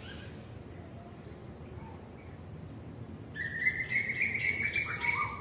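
Birds calling: three thin, high notes that slide downward, about a second apart, then from about three seconds in a louder, busier run of chirps with a sustained high note.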